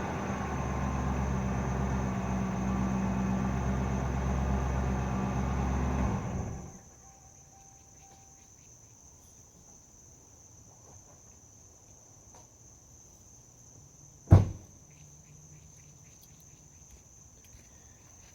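A stock 2007 Ford Crown Victoria Police Interceptor's 4.6-litre V8 running steadily, then stopping suddenly about six and a half seconds in, as if switched off. Crickets chirp faintly after that, and a single sharp thump sounds near the end.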